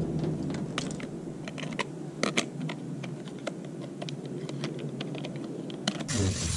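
Irregular light clicks and taps, scattered unevenly and sounding like small hard objects being handled.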